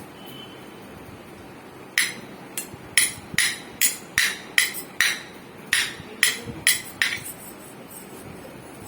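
A run of about a dozen sharp knocks, roughly two a second, starting about two seconds in and stopping about seven seconds in, each with a short ring.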